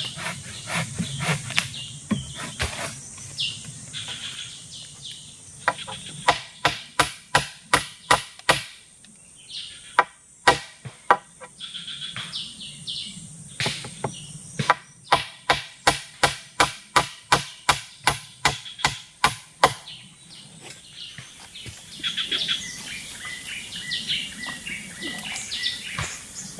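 Repeated blade strikes chopping wood, in two long runs of quick, even blows at about three a second, with a short pause between them. A steady insect buzz and bird chirps go on underneath.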